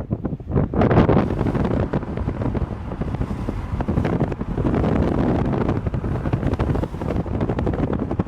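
Strong gusty wind blowing across the microphone, rising and falling in strength.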